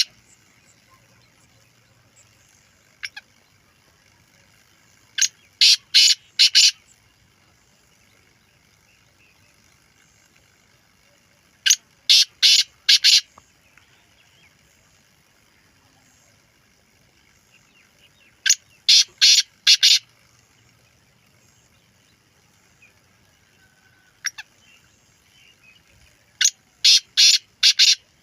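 Black francolin calling: four phrases of about five short, harsh, rapid notes each, repeated every six to seven seconds, with a single short note twice in the pauses.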